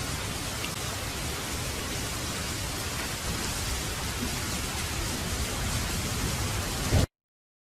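Heavy rain falling steadily as an even hiss, cutting off abruptly to silence about seven seconds in.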